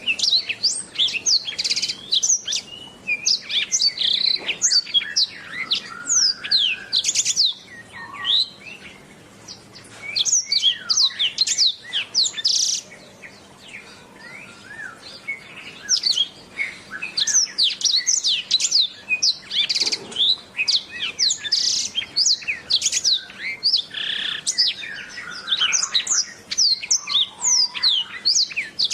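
Domestic canary singing a long, rapid song of fast chirps, trills and sweeping notes, pausing briefly twice.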